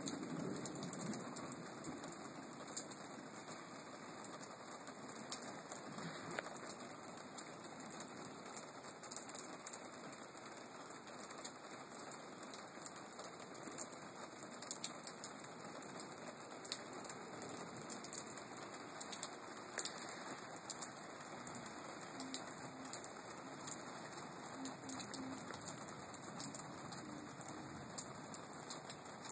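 Steady rain falling during a thunderstorm: an even hiss of rain with many small raindrop ticks.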